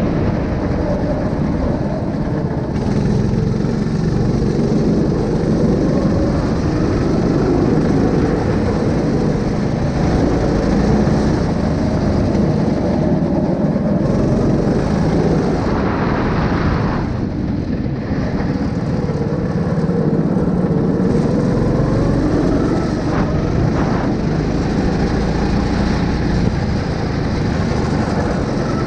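A 9 hp engine running steadily under power, with a heavy low rumble.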